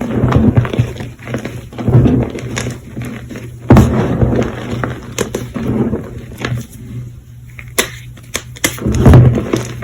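Close-miked crunching of fresh, semi squeaky Colift gym chalk: irregular crunches with sharp clicks every second or so, the loudest about 2 s, 4 s and 9 s in.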